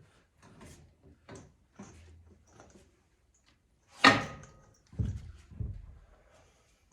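Metal clicks and scrapes from handling the oil boiler's hinged access plate as it is opened. About four seconds in comes one sharp metallic clank with a short ring, then two dull thuds.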